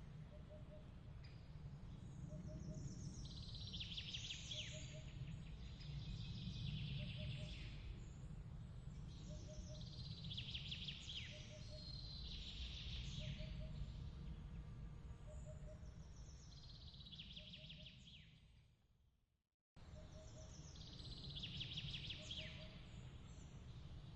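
Repeated clusters of high bird chirps over a steady low rumbling background, with a short faint double note recurring about every second and a half. The whole mix fades out about 18 seconds in, drops to silence for a moment, and starts again abruptly.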